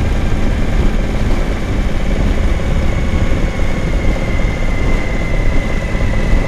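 Suzuki V-Strom 1000's V-twin engine running steadily while the motorcycle rides along, mixed with wind rush and a thin high whine.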